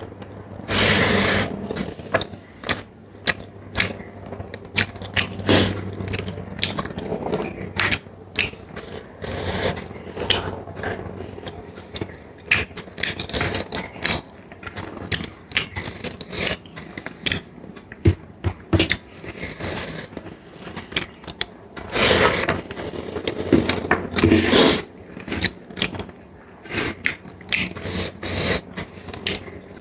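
Close-miked eating sounds of someone eating curry: many quick wet mouth clicks and chewing, with scraping, and a few longer louder smacking or slurping bursts about a second in and again later on.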